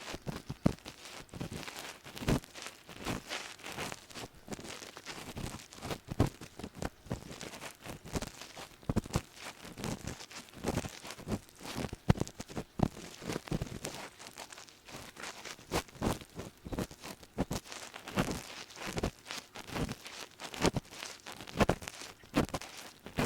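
Ear pick scraping and scratching inside an ear, picked up close: irregular crackly scrapes and taps, about one or two a second, with a soft rustling between them.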